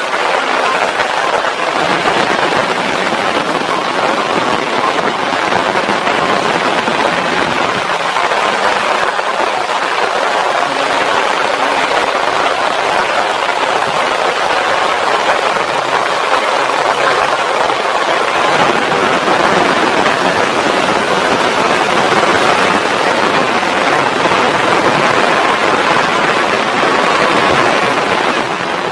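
Heavy rain falling steadily, a dense even hiss that holds throughout.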